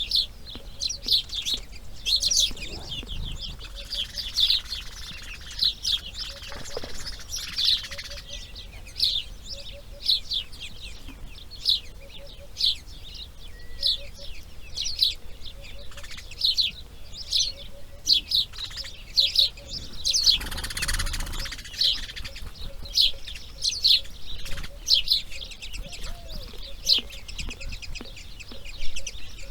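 Birds calling in a steady run of short, high chirps, several a second. A brief rushing noise comes a little after twenty seconds in.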